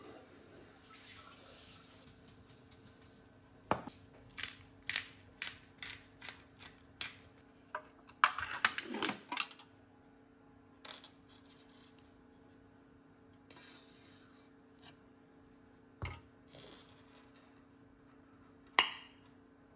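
Kitchen utensils and dishes being handled during food prep: a run of sharp knocks about two a second, then a short burst of clatter, then a few single clinks, over a steady low hum.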